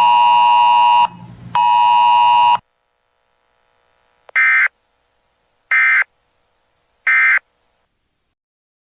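Weather radio alert audio: two long, loud electronic beep tones end about 2.6 s in. Then come three short identical data bursts about a second and a half apart, the EAS end-of-message code that closes a NOAA Weather Radio alert broadcast.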